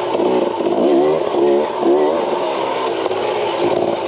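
KTM 300 XC-W two-stroke dirt bike engine revving in quick throttle bursts, its pitch rising and falling several times.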